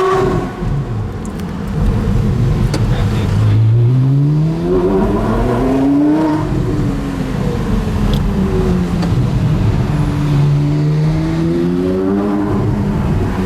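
Porsche Carrera GT's 5.7-litre V10 with a straight-through exhaust, revving up and easing off: the engine note climbs from about four seconds in, falls away, then climbs again about ten seconds in before dropping near the end.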